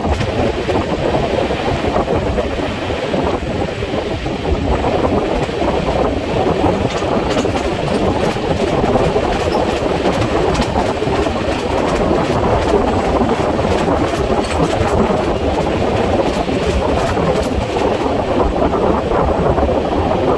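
Passenger train running at speed: a steady rumble of wheels on rail with scattered faint clicks, sped up to double speed.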